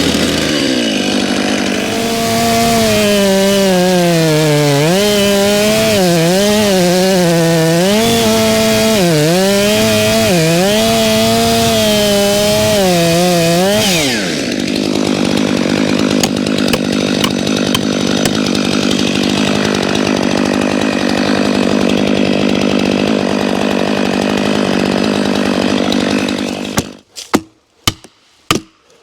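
Stihl two-stroke chainsaw cutting into a hickory, its engine speed rising and dipping under load for about fourteen seconds, then dropping to a steady idle. The engine cuts off near the end, and a series of sharp knocks follows.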